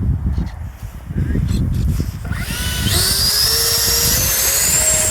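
Wind buffeting the microphone, then about halfway through the twin 70 mm electric ducted fans of an RC jet spool up with a rising whine that levels off into a steady high whine near the end.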